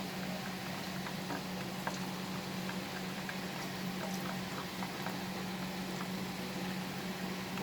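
Spice-coated chicken pieces deep-frying in hot oil in a karahi: a steady sizzle scattered with small crackles and pops.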